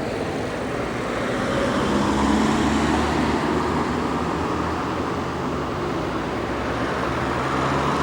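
Steady motor vehicle engine and road noise, with the engine hum shifting slightly in pitch now and then.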